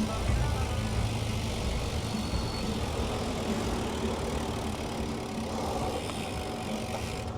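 City street traffic: car engines running and idling, with a steady low rumble.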